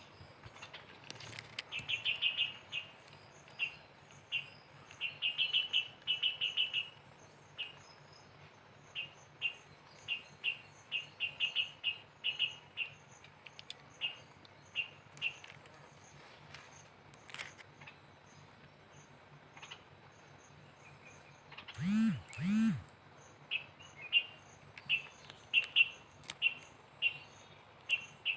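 Bulbul chirping: short, high chirps, some in quick runs, repeated throughout. A faint steady cricket trill sits underneath, and two louder short sounds with an arching pitch come about two-thirds of the way through.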